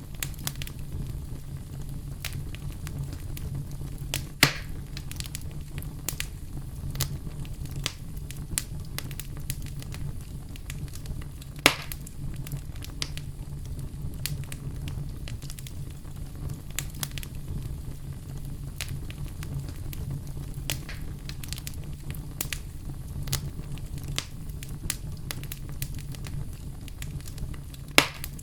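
Campfire burning with a steady low rumble and constant crackling, with sharp louder pops about four seconds in, near the middle and near the end.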